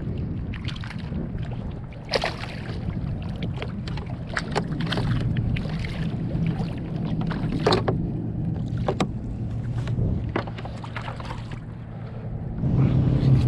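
Water lapping and slapping against a kayak's hull in short irregular splashes, over a steady low hum.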